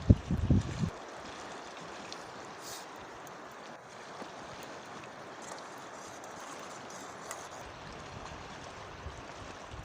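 Steady rushing of a flowing river, an even wash of water noise. A few low thumps in the first second.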